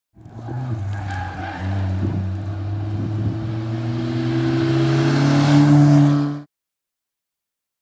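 Rally car engine pulling hard under acceleration, its pitch and loudness climbing steadily for about six seconds, then cutting off suddenly.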